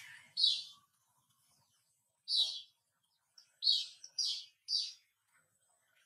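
A small bird chirping: short, high calls, one about half a second in, another near two and a half seconds, then three in quick succession near the end.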